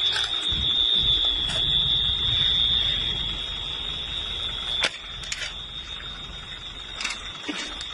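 A continuous high-pitched tone like an alarm, holding one pitch, over a low rumbling noise with a few sharp clicks. The rumble drops away with a click about five seconds in.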